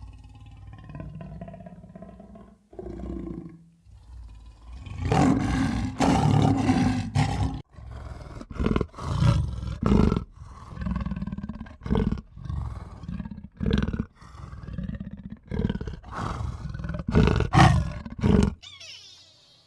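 A large animal roaring over and over: a long call, then a run of shorter calls about a second apart that stops just before the end.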